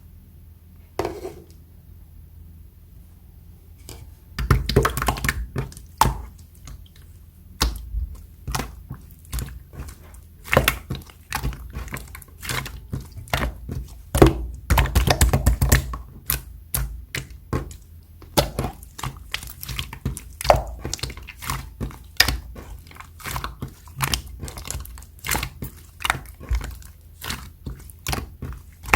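Silver marbled slime being pressed, poked and squished by hand, giving irregular sharp clicks and small pops. The clicks come in thicker runs about five seconds in and again around fifteen seconds.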